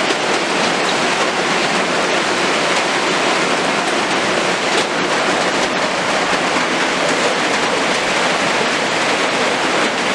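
Heavy rain pouring down: a loud, steady, dense hiss that does not let up.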